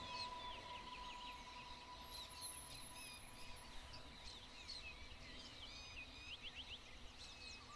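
Faint birdsong: many quick, high chirps and twitters from small birds over quiet outdoor background noise.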